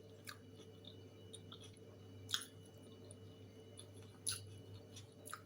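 Faint eating sounds: chewing, with a few short sharp clicks, the loudest a little over two seconds in, over a steady low hum.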